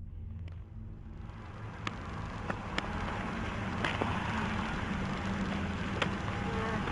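Vehicle noise: a steady low engine hum with road noise that builds over the first few seconds, and a few light clicks.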